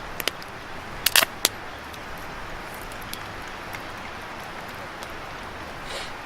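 Small wood fire just getting going on bare ground: a few sharp cracks and snaps of burning kindling, with a quick loud cluster about a second in, over a steady hiss.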